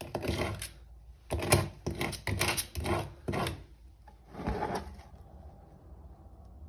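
A run of short scraping or rubbing strokes, about seven in the first five seconds, uneven in spacing, then they stop.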